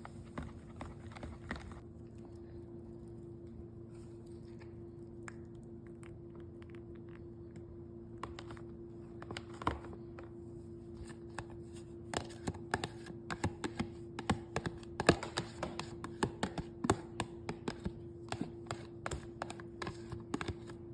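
A spoon clicking and tapping against a bowl while stirring a sauce of mayonnaise, ketchup and mustard, sparse at first and quick and irregular in the second half, over a steady low hum.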